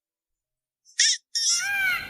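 Silence, then about a second in a short high chirp and a brief hiss, and from about a second and a half a bird's call that rises and falls in pitch begins.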